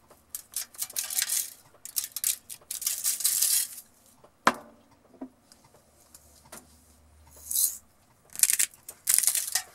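Pepper grinder being twisted in a series of short rasping grinding bursts, with a single sharp knock about halfway through.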